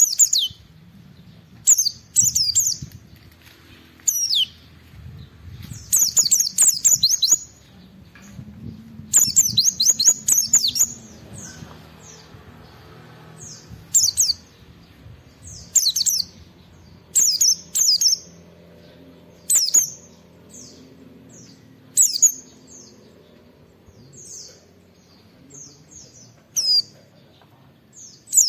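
Pleci (white-eye) in full song: short bursts of rapid, high-pitched twittering notes. The phrases come every second or two, and some run for about a second.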